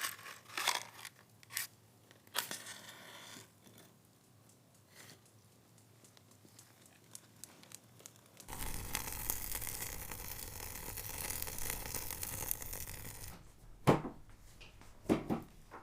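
Freshly lit wood fire in a grill crackling, with a few scattered clicks and knocks. About eight seconds in, a dense crackling hiss starts suddenly and then cuts off about five seconds later.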